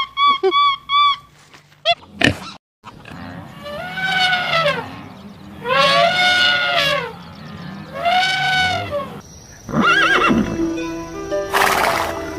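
A series of animal calls. It opens with quick short chirping calls. After a brief gap come three long pitched calls that rise and fall, each about a second long and spaced about two seconds apart. Near the end a different wavering call sounds over steady tones.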